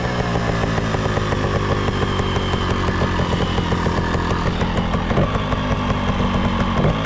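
Beta EVO trials motorcycle's two-stroke engine running steadily at a fast, even putter, with a few small changes in speed after the middle.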